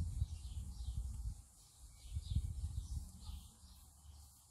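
A small bird chirping, a short falling note repeated about twice a second, over an irregular low rumble that swells in the first second and again about two and a half seconds in.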